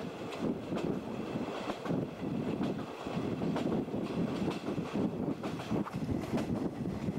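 JNR 50-series passenger coach running at speed, heard at its open window: steady rumble of wheels on rail, a few light clacks over rail joints, and wind rushing in.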